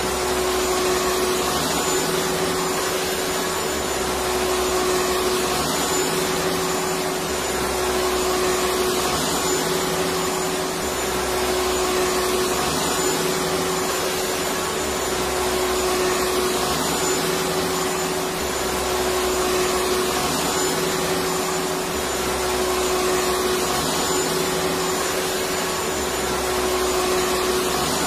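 Electric vacuum cleaner running continuously, a steady whooshing motor hum with a constant tone, rising and falling slightly in level every few seconds.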